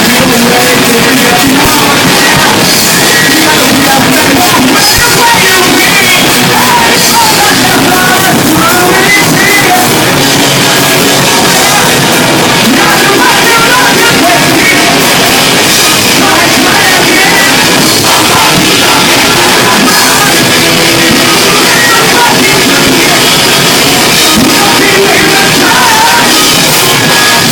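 A rock band playing loud and heavily distorted, with shouted vocals over drums and electric guitars.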